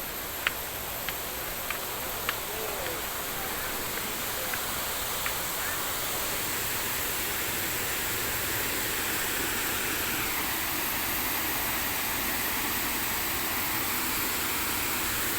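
Steady rush of a waterfall, growing a little louder over time, with a few sharp clicks in the first five seconds or so.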